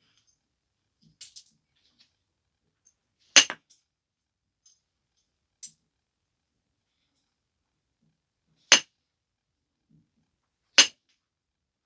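Sharp, brief clicks of flakes coming off a stone biface as it is knapped: three loud ones spread a few seconds apart, with a couple of fainter ticks between them.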